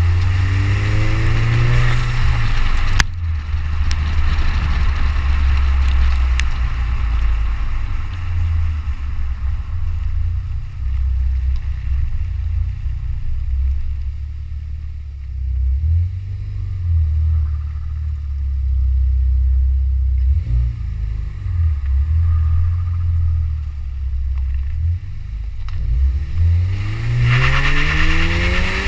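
Exhaust note of a 2012 Buick Regal GS's turbocharged 2.0-litre four-cylinder through a custom exhaust with Borla S-Type mufflers: a deep drone that climbs in pitch as the engine accelerates at the start, settles into a steadier rumble, then climbs again in the last couple of seconds. A sharp click sounds about three seconds in.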